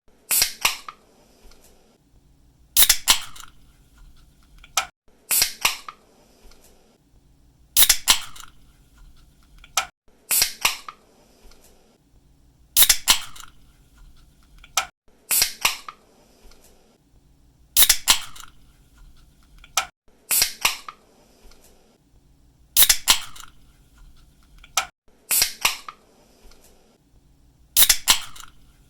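Aluminium drink can being cracked open, over and over: each time a sharp snap of the pull tab and a short fizz of escaping gas, about every two and a half seconds.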